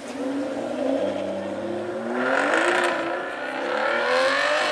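Aston Martin Vanquish S Ultimate's V12 engine revving as the car accelerates away, its pitch climbing twice.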